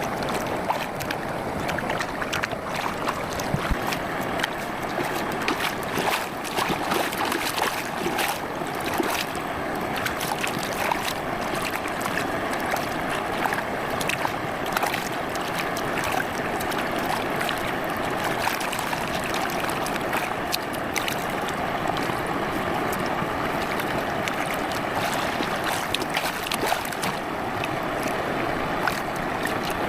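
Campfire crackling, with frequent sharp pops and snaps over a steady rushing hiss.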